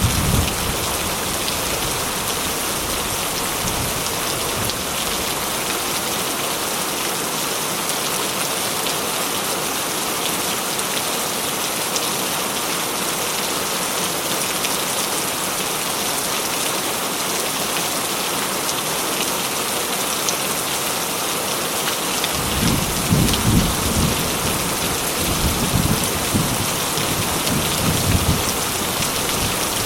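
Steady heavy rain falling. About three-quarters of the way through, a long roll of thunder rumbles low underneath for several seconds.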